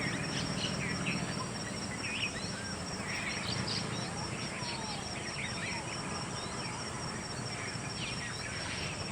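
Several small songbirds chirping, with many short, quick calls overlapping throughout. A continuous high buzz and a low steady rumble sit beneath them.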